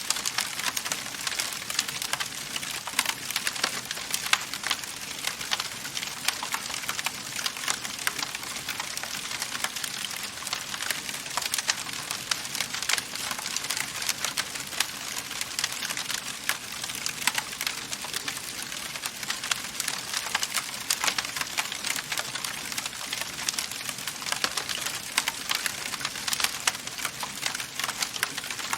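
Wood fire burning in a fireplace, crackling steadily with many small sharp pops over a soft hiss.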